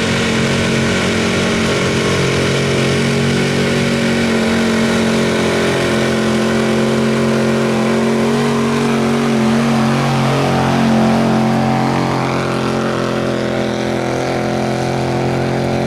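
1975 Ford F-250's stock gas engine held at high revs under full load as the truck pulls the sled, a steady loud drone with only slight wavers in pitch.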